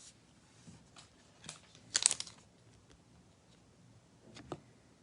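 Foil trading-card pack wrapper crinkling and tearing as it is opened by hand, in a short burst about two seconds in, with a few lighter rustles and a click of cards being handled around it.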